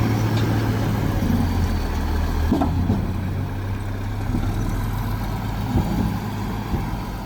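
Heavy diesel earthmoving machinery engine running steadily with a low hum, with a few short knocks about two and a half and six seconds in, and growing quieter in the second half.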